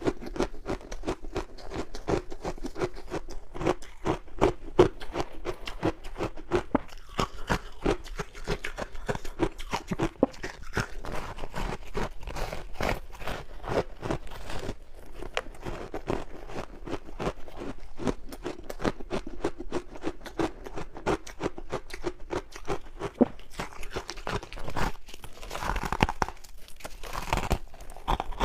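Close-miked crunching and chewing of crunchy ice, a dense run of rapid, sharp crunches that goes on without a break.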